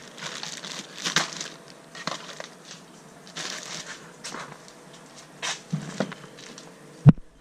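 Plastic bag crinkling in short, intermittent rustles as the bagged router, power brick and remotes inside are handled, with one sharp thump near the end.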